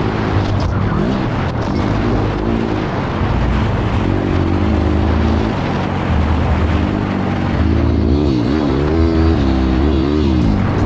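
Off-road racing engines revving, their pitch rising and falling again and again, most busily in the second half.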